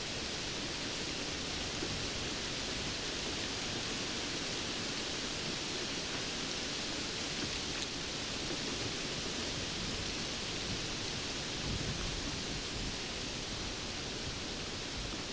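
Steady rainfall: an even hiss of rain with faint scattered drop ticks, holding a constant level.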